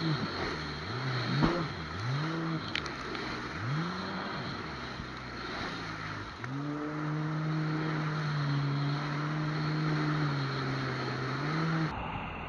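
Jet ski engine revving up and dropping back several times as it rides over waves, then held at a steady higher speed for the last several seconds, with wind and water rushing.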